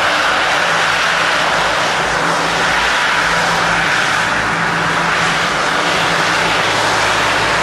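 Boeing 777 jet engines running, a steady loud rush of engine and air noise with a low hum underneath.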